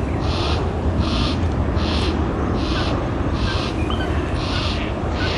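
Fledged juvenile yellow-tailed black cockatoo begging: a harsh, scratchy whinging call repeated about every 0.8 seconds, seven times, the young bird still calling to its parents for food.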